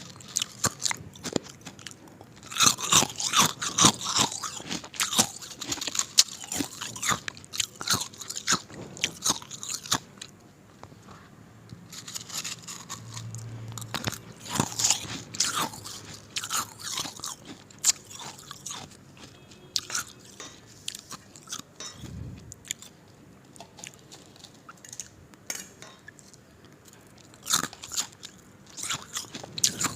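Ice being bitten and chewed, with irregular sharp crunches. The crunching is densest a few seconds in and again about halfway, with quieter chewing between.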